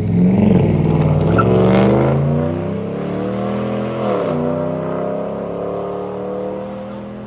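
Sports car engine accelerating away under load. The pitch climbs steadily, drops sharply with an upshift about four seconds in, then climbs again as the sound fades into the distance.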